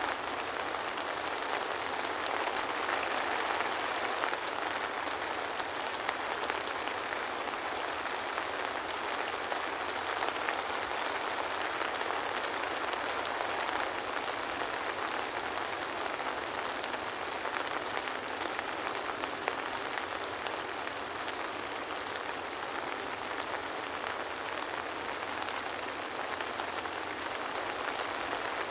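Steady soft rain with a dense patter of fine drops, no thunder.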